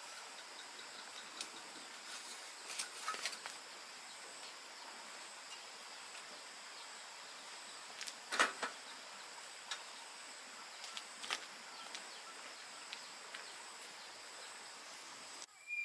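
Faint outdoor background with a steady high-pitched hiss and a few scattered light knocks or clicks, the clearest about eight seconds in.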